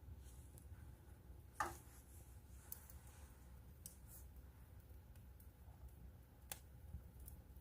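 Wood fire crackling faintly: sparse small pops and ticks over a low hum. The loudest is a pop about one and a half seconds in, with a short falling squeak.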